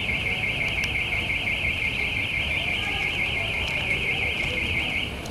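Electronic car alarm sounding a loud, rapid up-and-down warble, cutting off suddenly about five seconds in.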